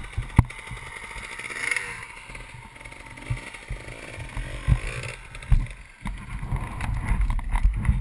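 Uneven low rumble of a moving dirt-bike ride, with sharp knocks and jolts at irregular moments. The ride grows rougher and louder near the end.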